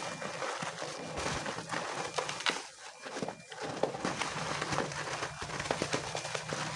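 A plastic bag of corn feed crinkling and rustling, with many quick irregular clicks; the bag is torn open.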